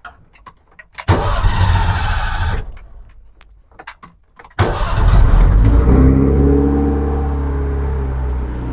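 Zastava 101's four-cylinder engine, fitted with a new single-barrel Weber-type carburettor, being started: it fires for about a second and a half and dies away, then about four and a half seconds in it starts suddenly, its revs dropping and settling into a steady idle.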